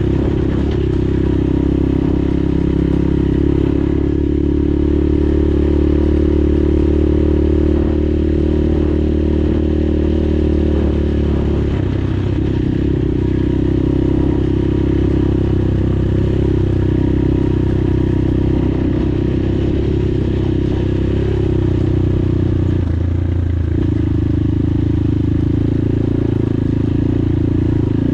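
PROGASI Super Max 250 enduro motorcycle running steadily under way, heard from the rider's seat. The engine note shifts about twelve seconds in and again a little after twenty seconds.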